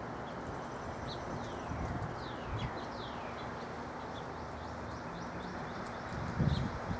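Small backyard birds chirping, with several quick downward-sliding calls between about one and three seconds in, over a steady low background rumble. A few soft low thumps come near the end.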